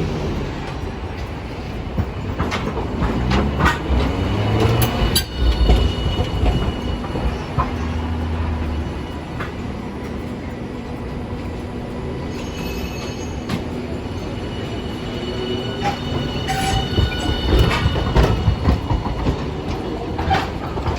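Hiroshima Electric Railway streetcar running on its rails: a steady low motor and wheel rumble with scattered clicks and knocks, and brief high-pitched wheel squeal partway through.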